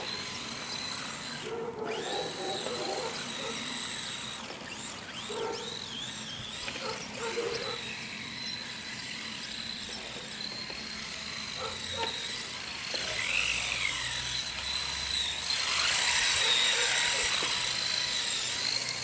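Radio-controlled car's motor whining at a high, slightly wavering pitch, with a louder rushing burst near the end.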